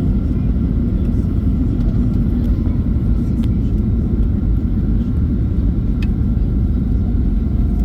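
Steady low rumble of a Boeing 737's engines and airflow heard inside the passenger cabin during the landing.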